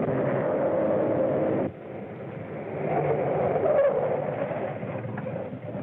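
A running vehicle, cutting off abruptly about a second and a half in, then a quieter vehicle noise that swells and fades.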